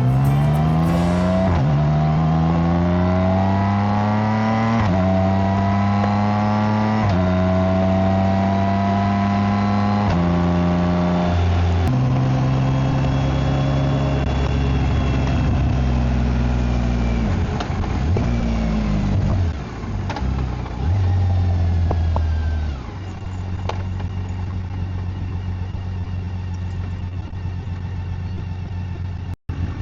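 BMW K1600GT's inline-six engine accelerating through several upshifts: the pitch climbs and drops back at each shift. It then winds down and settles into a steady, lower-pitched cruise for the last third.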